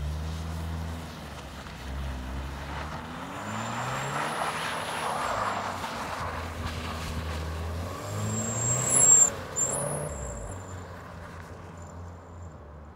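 Subaru Impreza sport wagon's flat-four engine revving up and down repeatedly as the all-wheel-drive car drifts on snow. The sound is loudest about nine seconds in and then fades as the car moves away.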